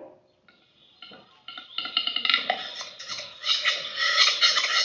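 Western capercaillie's courtship display song. Sparse dry clicks begin about half a second in, then speed up into a dense rattle of clicks and scraping notes that grows louder toward the end.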